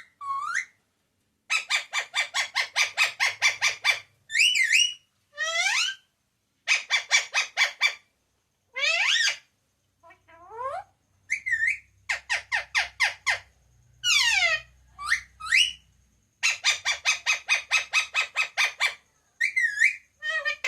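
Pet parrot calling: runs of fast repeated harsh chattering notes, about five or six a second, alternating with single rising and falling squawks and whistles.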